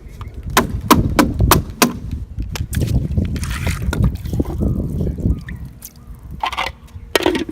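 Water pouring and splashing, with a series of sharp knocks and rattles, as pool-cleaning gear is emptied out.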